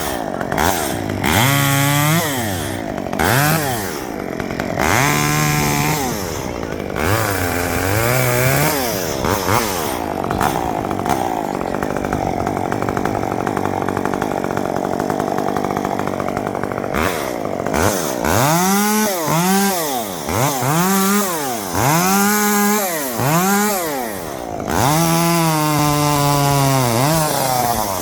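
Two-stroke chainsaw revving up and dropping back many times in quick bursts, with a longer held-throttle stretch in the middle while it cuts limbs.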